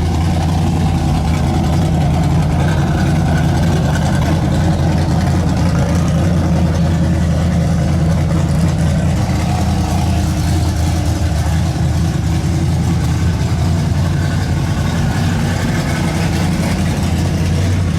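An engine idling steadily close by, a constant low hum that does not change in pitch or level.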